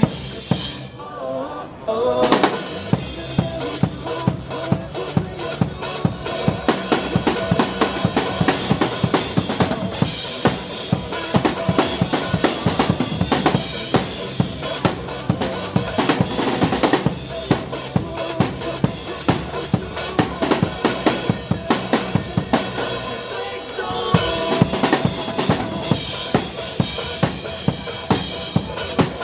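Drum kit playing a steady rock beat of bass drum, snare and cymbals over a band backing track.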